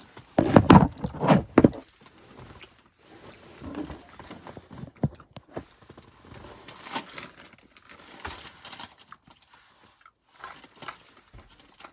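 Almonds being chewed with crunches close to the microphone, in scattered bursts, after a loud rustling clatter that begins about half a second in and lasts over a second.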